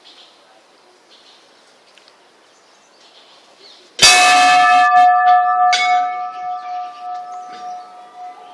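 A metal bell struck about four seconds in, with a second lighter strike under two seconds later, ringing on with several steady tones and fading slowly. Faint bird chirps before the strike.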